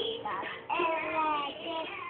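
A young boy singing a campfire song, holding notes with a brief break between phrases about two-thirds of a second in.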